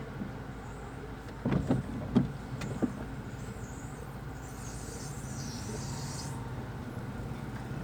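Car running at low speed, heard from inside the cabin as a steady low hum. A few short knocks come between about a second and a half and three seconds in, and a brief hiss follows about five seconds in.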